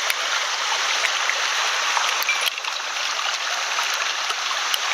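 Water of a small mountain headwater stream rushing steadily.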